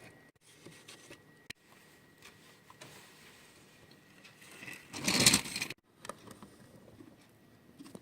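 Scattered small clicks and taps of handling, with one brief, loud scraping rustle about five seconds in that cuts off abruptly.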